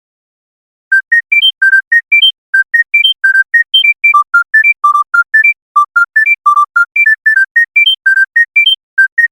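Smartphone ringtone playing a simple melody of short, high, beep-like notes, about four a second, stepping up and down in pitch. It starts about a second in.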